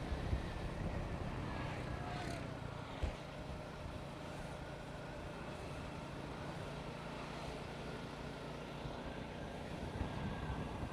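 A motorcycle engine running steadily on the move, with road and wind noise, and a brief thump about three seconds in.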